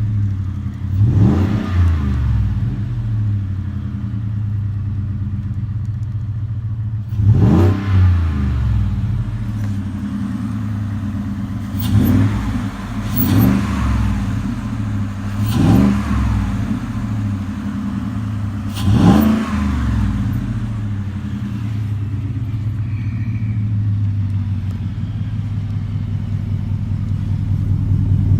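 2018 Ford F-150's engine idling through a MagnaFlow dual exhaust and cold air intake, blipped up in about six short revs that each fall back to a steady idle. The revs come about a second in, near a quarter of the way in, and then in a cluster past the middle.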